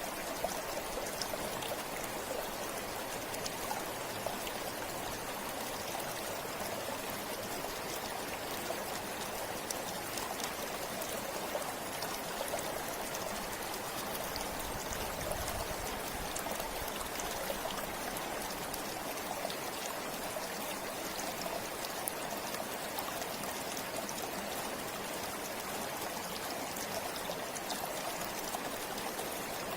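A river flowing steadily, its water running and splashing in an even rush, with fine trickling and droplet sounds through it.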